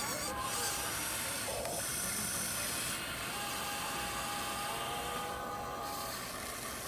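Radio-controlled 1/14-scale trucks running: a steady whine from the electric motors and gearboxes that starts and stops several times, over a constant hiss.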